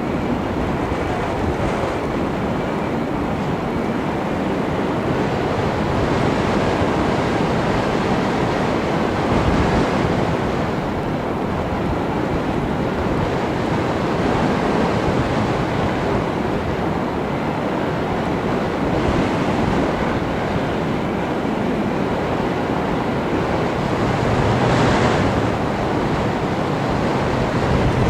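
Steady rush of wind over the onboard camera microphone of an FPV model aircraft in flight, with the faint steady whine of its motor and propeller underneath.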